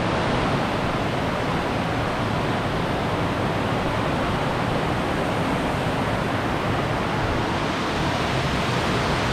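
Rushing water of a creek over rapids: a steady, even wash of noise with no break.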